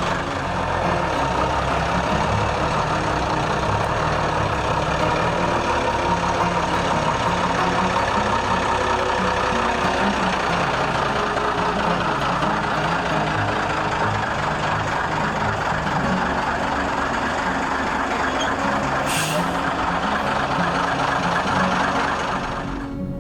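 Large truck's engine running steadily, with a short hiss like air being released about four seconds before the end.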